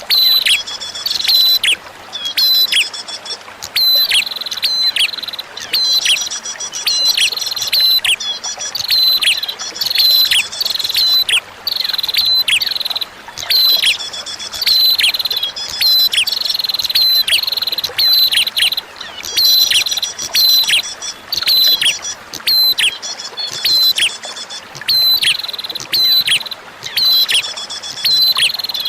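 Prinia (prenjak) song: quick runs of sharp, high chirps that sweep downward, repeated in phrases every second or two, over a faint hiss of flowing water.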